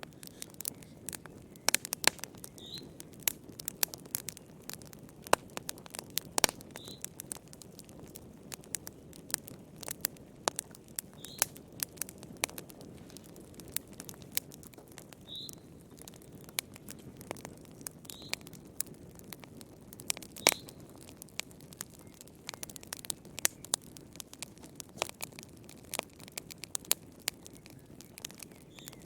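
Wood fire burning in a fireplace: a steady low hiss of the flames with frequent irregular sharp crackles and pops from the burning logs, and a faint brief high chirp every few seconds.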